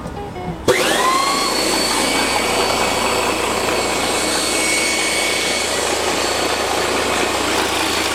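Small high-speed electric motor switched on under a second in, spinning up with a quickly rising whine and then running steadily with a loud rushing hum; this is a test run after refitting the bolt on the wobbly shaft next to its centre bearing.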